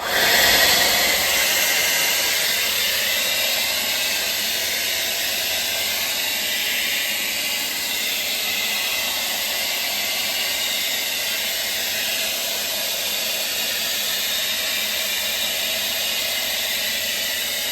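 Handheld hair dryer switched on at its hot setting, starting suddenly and then running with a steady blowing hiss.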